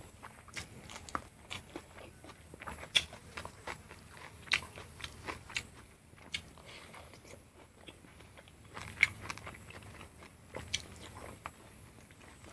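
Close-up eating sounds of someone chewing boiled pork and rice eaten by hand: wet chewing and mouth smacks, with irregular sharp clicks, a few of them louder.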